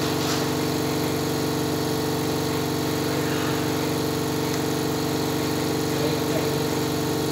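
A machine motor or engine running steadily with an even, unchanging hum.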